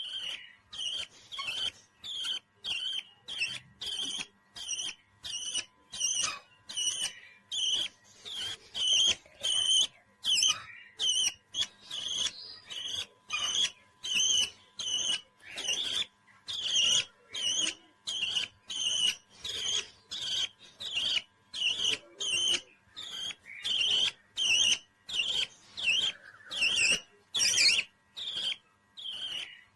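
Parrot chirping in short, high calls repeated evenly, about two a second.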